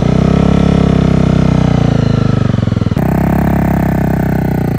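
Honda CBR250 motorcycle engine picking up revs as the clutch is let out in first gear and the bike pulls away, running steadily under load. The sound changes abruptly about three seconds in.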